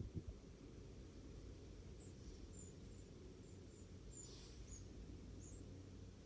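Wren chicks giving faint, very high, thin peeps, about eight short calls from two seconds in, over a low background rumble.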